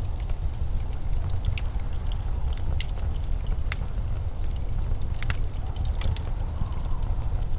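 Steady low wind rumble of a winter storm, with scattered sharp crackles and ticks on top, a few every second.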